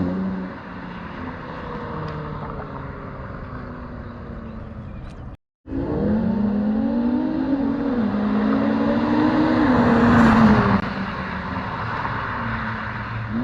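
Infiniti Q50 Red Sport 400's twin-turbo V6 through a Motordyne exhaust and aftermarket downpipes. The engine settles from a rev, then runs steadily. After a brief dropout it accelerates, its pitch climbing, dipping once as it shifts, climbing again, then falling away near the end.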